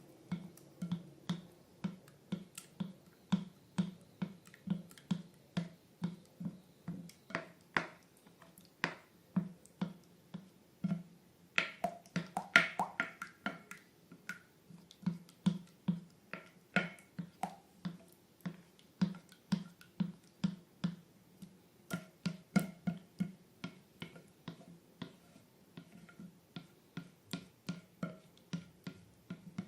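Slime being pressed and squished by hand, giving short wet clicking pops about twice a second, with a louder burst of crackles about twelve seconds in.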